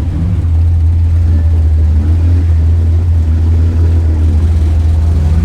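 Loud, steady low drone of an engine running, holding an even pitch throughout.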